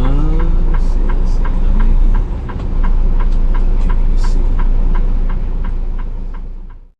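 Semi truck running, heard from inside the cab: a steady low rumble with a light tick about three times a second. A short rising tone comes at the start, and the sound fades out near the end.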